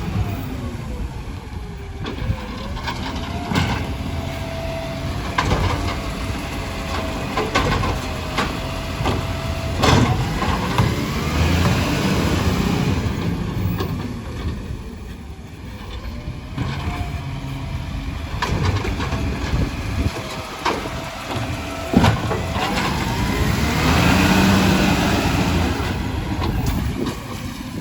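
Garbage truck engine running, with a hydraulic whine that holds steady for a few seconds and later rises and falls, and several sharp knocks scattered through.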